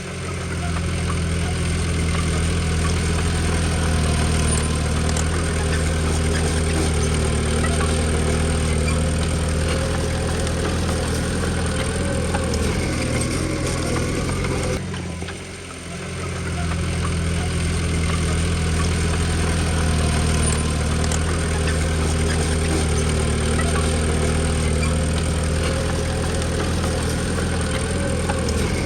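Komatsu D20P bulldozer's diesel engine running steadily with a deep, even drone. The sound dips briefly about halfway through.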